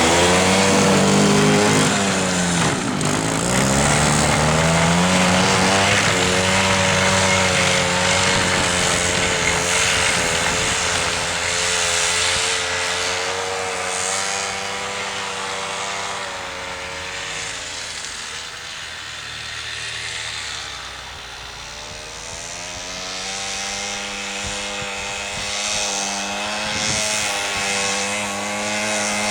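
Homemade snowmobile's Minsk motorcycle engine running under way, its pitch repeatedly rising and falling as the throttle changes. The sound grows quieter about two-thirds of the way through, then louder again.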